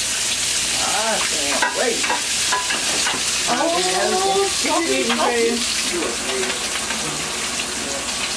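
Crab pieces frying in oil in a cast-iron skillet and a frying pan, a steady sizzle, with a utensil scraping as they are turned. Indistinct talk sounds in the background about a second in and again around the middle.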